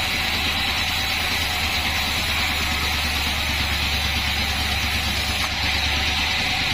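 Band sawmill running steadily, a constant low hum under an even hiss.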